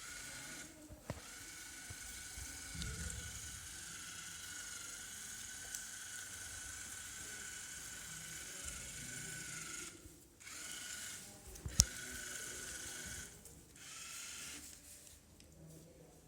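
Fire Bird V robot's small geared DC drive motors whining steadily as it drives, stopping briefly about ten seconds in and again near the end. A sharp click, the loudest sound, comes just before the last run.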